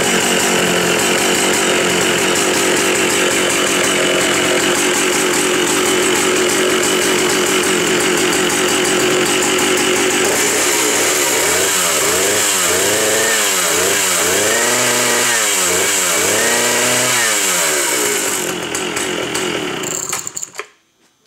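Jonsered 111S 110 cc two-stroke chainsaw running loudly at steady speed, then from about ten seconds in its revs repeatedly dropping and climbing as the throttle is worked. Near the end it winds down and stops.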